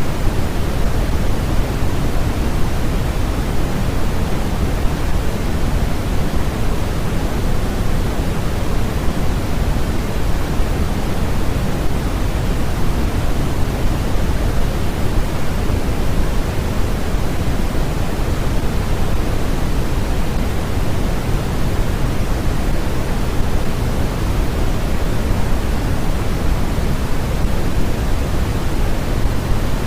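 Steady synthetic sleep noise, a constant hiss with no changes, heavier in the low end than the highs, like pink noise.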